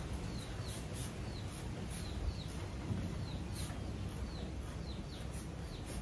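A small bird chirping over and over, about two short, high, falling chirps a second, over steady low outdoor background noise.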